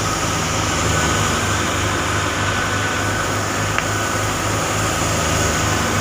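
Farm machinery engine running steadily at harvest, a low pulsing hum with a single sharp click about four seconds in.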